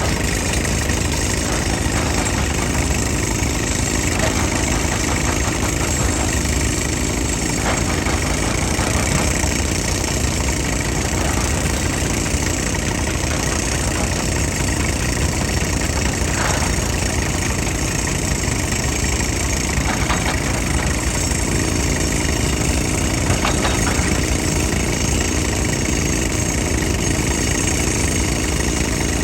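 Heavy machine's diesel engine running steadily, with a few faint knocks.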